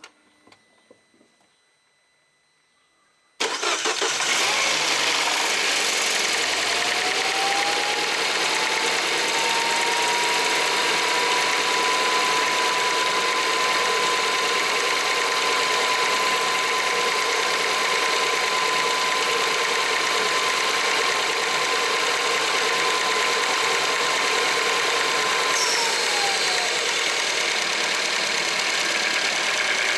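Peugeot 408's 1.6 THP turbo petrol engine running cold at idle, coming in abruptly about three seconds in and then running steadily. A whine in it rises in pitch over a few seconds, holds, and drops near the end. The owner suspects the noise of the cold engine may be the timing chain.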